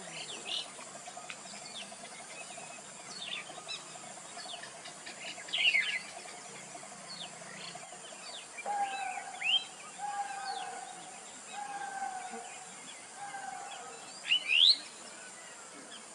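Birds calling with short sliding chirps over a steady high insect drone. About halfway through, one caller repeats four long, slightly falling notes, about a second and a half apart.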